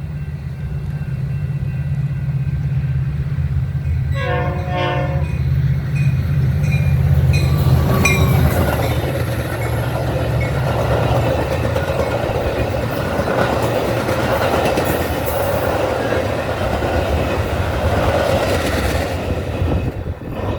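Diesel train approaching with a steady low engine drone, sounding its horn briefly about four seconds in. It then passes close by, its cars rushing and clattering for about ten seconds before the sound drops away near the end.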